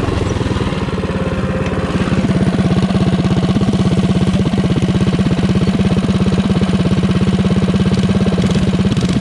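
Single-cylinder minibike engine running at a steady speed without revving, getting louder about two seconds in.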